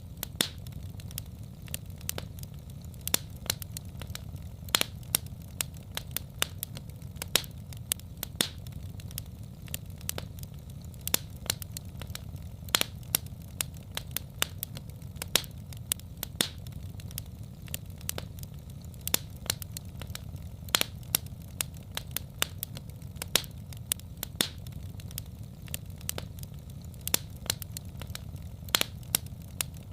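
Wood fire in a fireplace crackling, with sharp irregular pops and snaps a few times a second over a steady low rumble of the flames.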